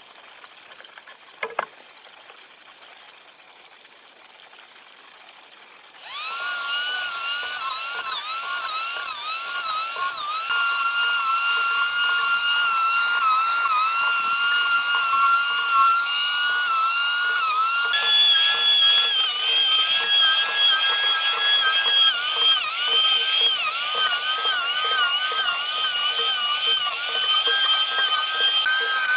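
High-pitched whine of a small electric power-tool motor starting about six seconds in, its pitch sagging and recovering again and again as it bites into material, then running higher from about eighteen seconds in. A single short sharp sound comes near the start, before the tool runs.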